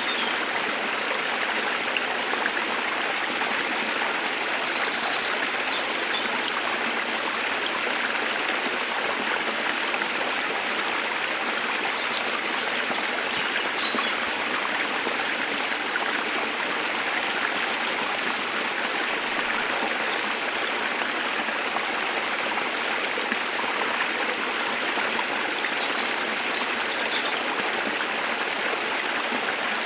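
Waterfall rushing steadily, with faint short bird chirps now and then above the water.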